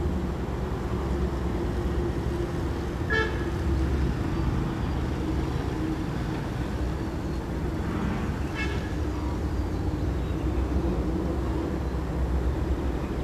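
Diesel-hauled KA Kertajaya passenger train rumbling steadily at speed, with a steady hum over the rumble. Two short, high toots sound about three and eight and a half seconds in.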